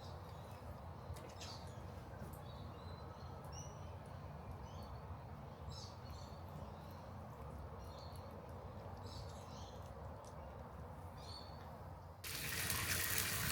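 Birds chirping in short, scattered calls over a steady low hum. About twelve seconds in, a loud, steady hiss starts abruptly.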